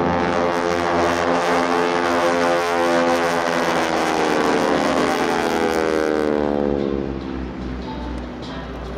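Propeller-driven aerobatic airplane flying past, its engine and propeller drone sliding down in pitch as it goes by, then fading near the end.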